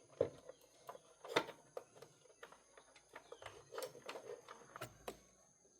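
Irregular sharp clicks and knocks, with two louder knocks in the first second and a half.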